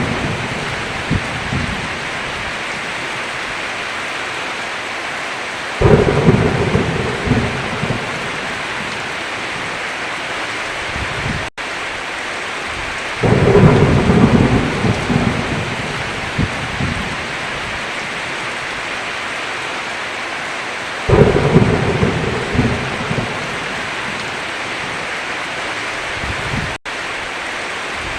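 Heavy rain falling steadily, with thunder rumbling in three times, about every seven and a half seconds. Each rumble starts suddenly and fades over a few seconds. The sound cuts out for an instant twice.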